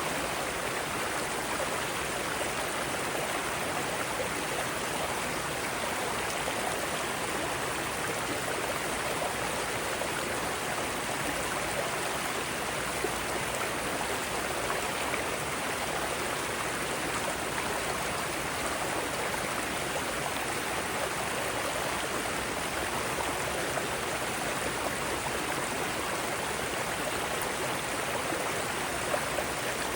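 Mountain stream rushing over rocks in a steady, dense wash of water noise.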